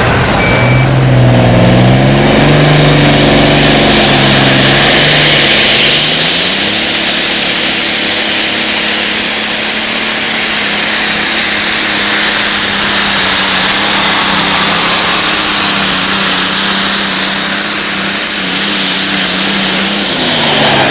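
Competition pulling tractor's engine revving up in steps over the first few seconds, then held at full throttle with a steady high whine through a long pull, dropping off near the end.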